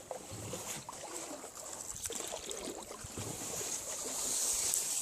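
Small boat moving slowly through weedy water, with irregular light splashes and scrapes against a steady high hiss.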